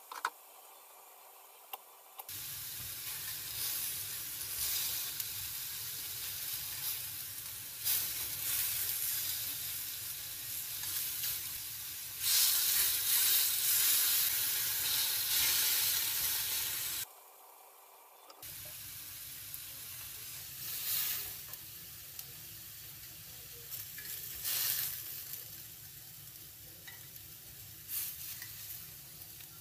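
Oyster mushrooms sizzling in oil on a hot ridged cast-iron grill pan, louder for a few seconds in the middle. Occasional clicks come from metal tongs on the pan as the pieces are turned and lifted out.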